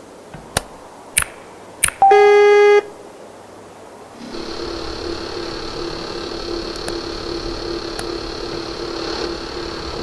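Three sharp clicks, then a short loud horn blast of under a second from a train. About four seconds in, a steady train running sound sets in, with a low hum and a high whine.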